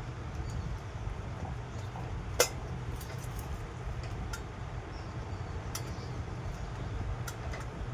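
Light clicks and clinks of small hard objects being handled, one sharper click about two and a half seconds in, over a steady low hum.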